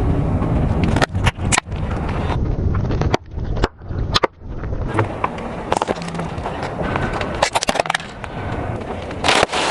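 Car tyre rolling slowly over objects on hard ground, crushing them with a run of crackling and cracking snaps over a low rolling rumble. The sound changes abruptly a few times, like cuts between separate crushes.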